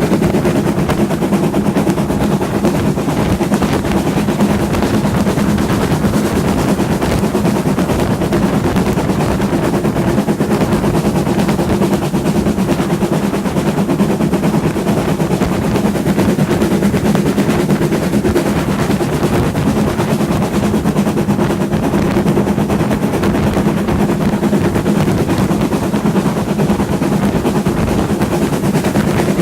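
Heritage steam train running, heard on board: a steady loud rumble with a fast, continuous rattling clatter and a steady low hum.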